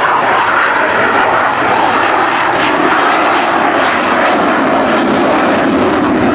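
Fixed-wing aircraft engine noise, loud and steady throughout, without any sudden changes.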